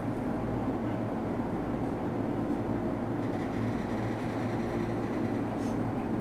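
Steady rumble and hum inside a JR East E233 series commuter train car once the doors have closed.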